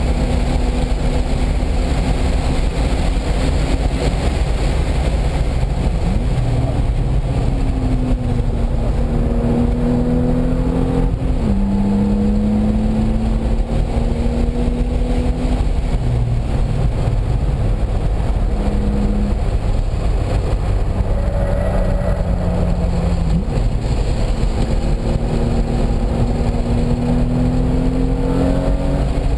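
Car engine lapping a race circuit under load. Its note climbs steadily and drops sharply at gear changes about 11 and 23 seconds in, over heavy road and wind noise.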